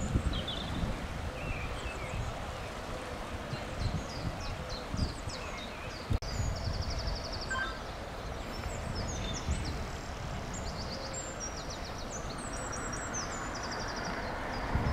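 Small birds singing, with repeated high chirps and quick trills, over wind rumbling on the microphone. The noise of an approaching train starts to build near the end.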